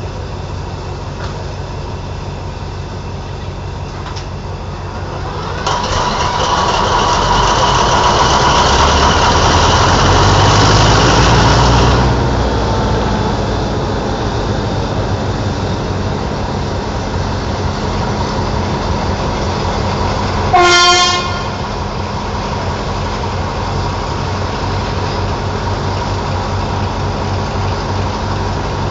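Alsthom ALD diesel-electric locomotive's engine starting: a loud surge from about six seconds to twelve seconds as it fires and runs up, then settling into a steady idle. The locomotive horn gives one short blast around twenty-one seconds in.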